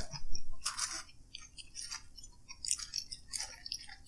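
Close-miked chewing and mouth sounds of a person eating fast food, in irregular short crackly bursts, loudest about half a second in.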